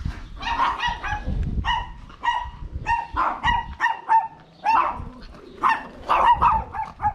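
Dog barking in a rapid series of short, fairly high-pitched barks, about two a second.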